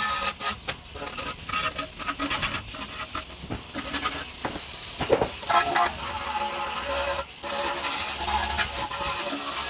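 Time-lapsed workshop sound of metal parts and hand tools being handled: a quick, irregular run of metallic clinks, clicks and clatter.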